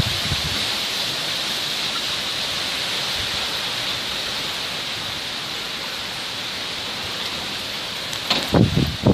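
Steady rain falling, an even hiss. Near the end, gusts of wind begin buffeting the microphone.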